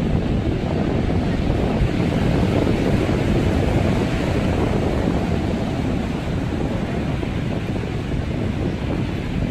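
Sea waves breaking and washing on the shore, a steady surging noise, with wind buffeting the microphone.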